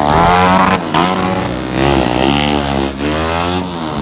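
Drag-racing motorcycle engine accelerating hard down the strip, its pitch rising and dropping back at each gear change, about three times.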